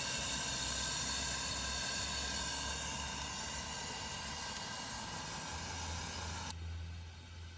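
Camp stove burner running with a steady hiss, cutting off suddenly near the end.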